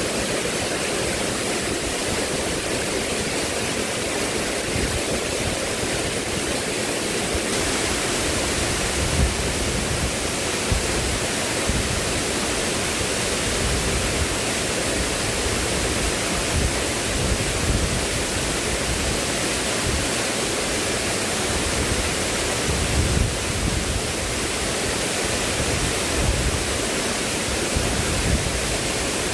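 Steady, even rushing of water, with a few brief low bumps.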